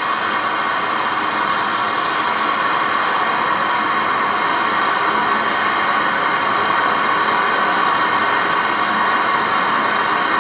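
Loud, steady hissing noise that starts abruptly and holds without change.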